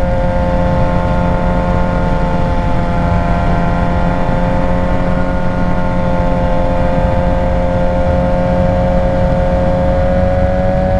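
Suzuki GSX-R 600 inline-four engine running at steady cruising revs under way, its pitch creeping slowly upward, over wind and road rush.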